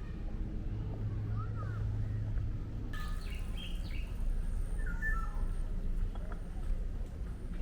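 Birds chirping in short calls that rise and fall, over a steady low outdoor rumble.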